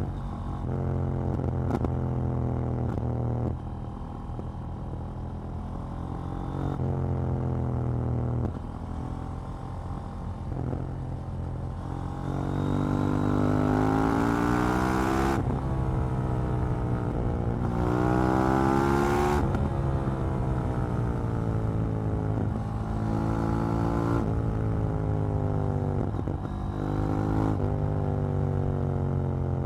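KTM 790 Duke's 799 cc parallel-twin engine running under way. Around the middle it accelerates hard twice, the pitch climbing steadily and then dropping suddenly as the next gear goes in. Before and after it runs at steadier throttle with smaller rises and falls.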